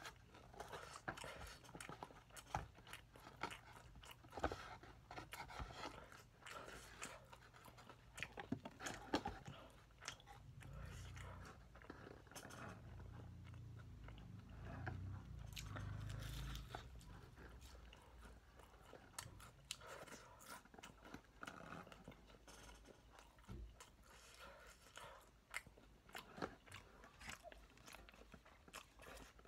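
Crunching and chewing of crispy fried chicken at close range: repeated crisp bites and wet mouth clicks. A low rumble runs for several seconds in the middle.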